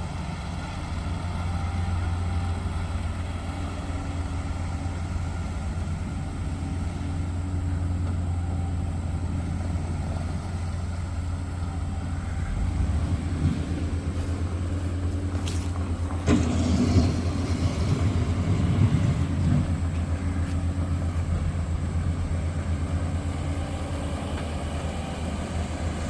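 Heavy construction machinery running steadily at a work site, a low engine drone throughout. Some sharp clanks and a rougher, louder stretch come about halfway through.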